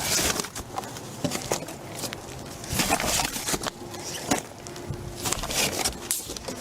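Rustling, scuffing and light knocks of cardboard boxes being handled and moved, with people shuffling about.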